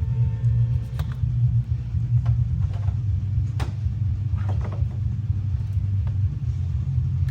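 A steady, loud low mechanical rumble, with a few light clicks and knocks over it, one clearer about three and a half seconds in.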